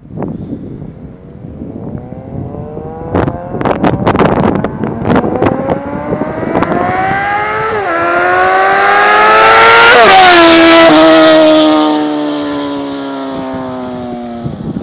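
2008 Suzuki GSX-R750's inline-four through a Two Brothers aftermarket exhaust, revving up through the gears with a brief dip in pitch about eight seconds in. It grows louder to a peak about ten seconds in, where the pitch drops sharply, then holds a slowly falling note as it fades.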